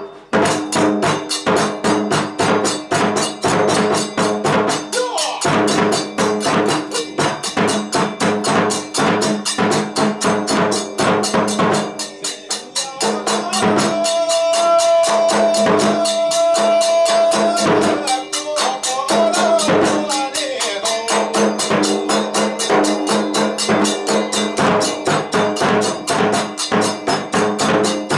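Kagura festival music: a fast, even, unbroken beat of drum and small hand cymbals over sustained tones, with one long held high note about halfway through.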